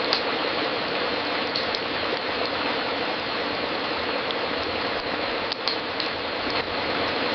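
Wood fire crackling in a fireplace: scattered sharp pops and snaps, a few close together, over a steady hiss.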